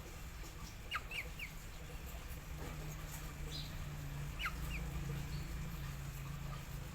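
A bird's short, high chirps, each falling in pitch: a quick group of three about a second in and two more about four and a half seconds in, over a low steady hum.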